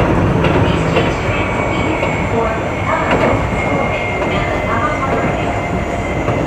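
Keio 8000 series electric train running on the line, with a steady rumble of wheels on rail. A low steady hum stops about a second in, and faint high tones run above the rumble.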